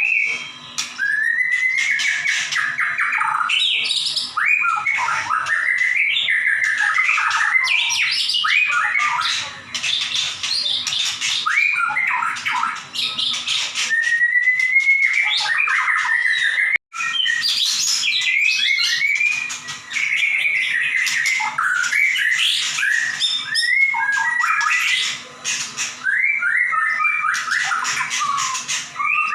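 White-rumped shama singing hard and continuously: a loud, varied song of gliding whistles and rapid sharp notes in quick runs, the rapid-fire 'nembak' style. It breaks off very briefly about 17 seconds in.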